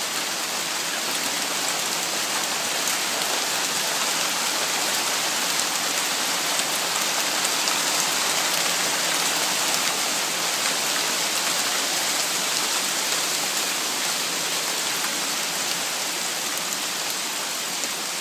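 Heavy rain mixed with hail pouring down, a dense steady hiss of water striking the ground and surfaces with faint scattered ticks of hailstones.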